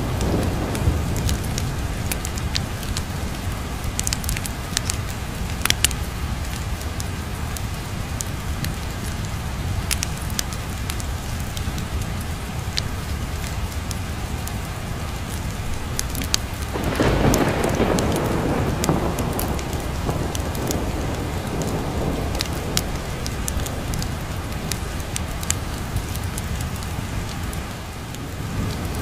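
Steady heavy rain with a low rumble beneath, and a roll of thunder that swells about two-thirds of the way through and fades over several seconds. Scattered sharp clicks run through it.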